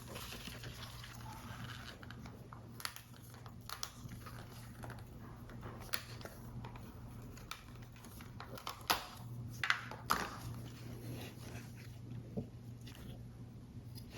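Paper model parts being handled and assembled: irregular small clicks, taps and light paper rustles, with a few sharper ticks about nine to ten seconds in, over a low steady hum.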